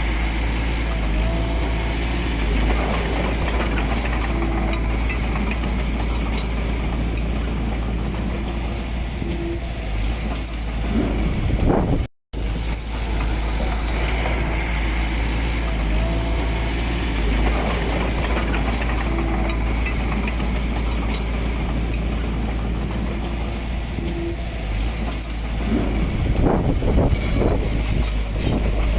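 Diesel engine of earth-moving machinery running steadily with a deep rumble, louder and rougher for a few seconds near the end. The sound cuts out for a moment about halfway.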